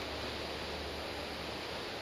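Steady, even rushing noise with no distinct events and no bird calls.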